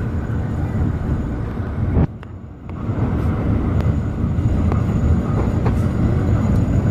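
Alishan Forest Railway narrow-gauge train running along the track, a steady rumble of wheels on rails. The sound drops away suddenly about two seconds in and comes back within a second.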